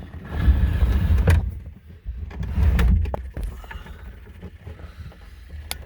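Clunks, knocks and rumbling handling noise from a person moving about in and around a skid steer's cab, in two irregular stretches about a second apart; the engine is not running.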